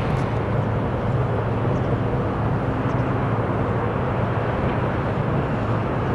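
Jet airliner engine noise, a steady even drone with a low hum.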